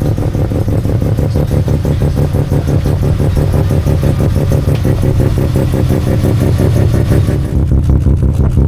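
Mazda rotary-engined car running close by, with a loud, choppy, pulsing exhaust note. Near the end the hiss above it drops away and a more even beat takes over.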